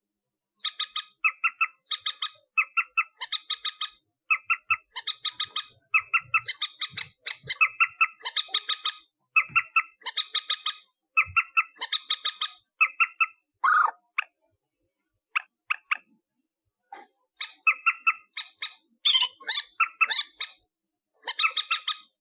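Rail (burung mandar) calls, played back as a trapping lure: harsh, rapidly pulsed calls repeated in short bursts about every half second, with a brief pause a little past the middle before they resume.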